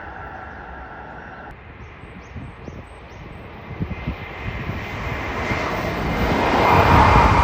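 Hokuriku Shinkansen train approaching at high speed: a rushing sound that builds from about halfway through and grows steadily louder toward the end.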